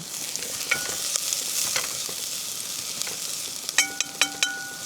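Chopped garlic and onion sizzling in hot oil in a pan over a fire, a steady hiss. A few sharp metallic clinks ring out, one about a second in, then several in quick succession near the end, as the pan is stirred.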